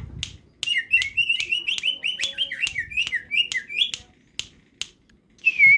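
Green leafbird (cucak hijau) singing a fast run of chirping notes, with sharp clicks in between and a loud downward-gliding whistle near the end.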